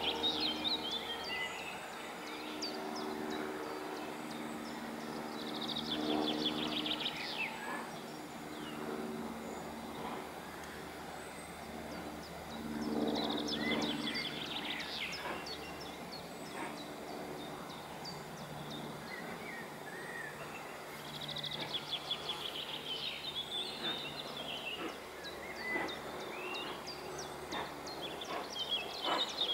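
Songbirds singing in short repeated phrases of chirps and trills every several seconds, over a faint low hum that comes and goes.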